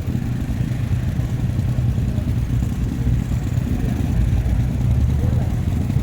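Vehicle engine running steadily on the move, heard from on board as a continuous low hum with road noise.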